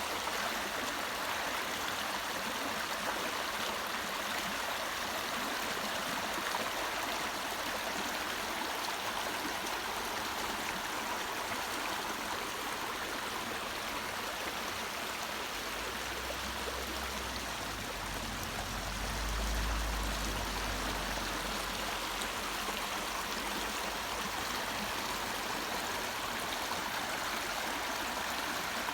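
Small brook babbling: a steady rush and trickle of flowing water. A low rumble joins in for several seconds about halfway through.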